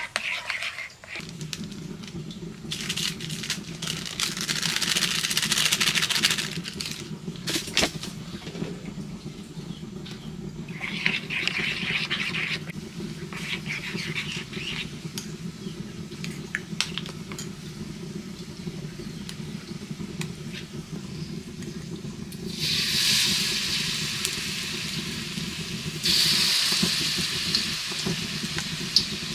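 A spoon stirs and clinks in a bowl of flour batter over a steady low hum. About 22 seconds in, batter-coated luffa slices go into hot oil in a wok and start sizzling, and the sizzle gets louder again near 26 seconds as more slices go in.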